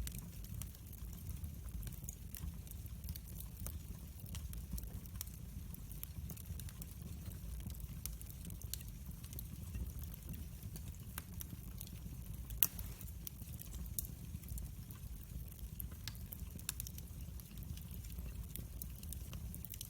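Wood fire crackling in a fireplace: a steady low rumble with scattered small pops and snaps, and one louder pop about two-thirds of the way through.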